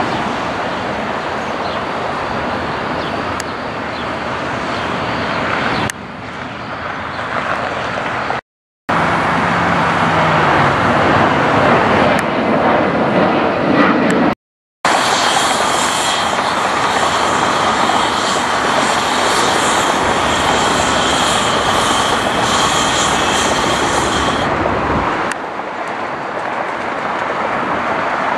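Jet airliner engine noise from planes passing at close range, in several short clips joined by abrupt cuts with two brief silent gaps. In the longest stretch the engines carry a steady high-pitched whine over the rush.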